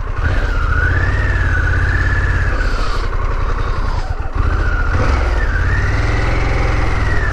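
Harley-Davidson Pan America 1250's V-twin engine running as the motorcycle is ridden, with a higher whine that rises and falls alongside it. The engine note drops out briefly about four seconds in, then picks up again.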